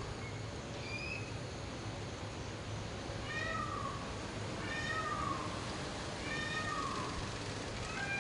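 Peacocks calling: a series of loud, cat-like wails, each arching and then falling in pitch, roughly every one and a half seconds, with a shorter higher call about a second in.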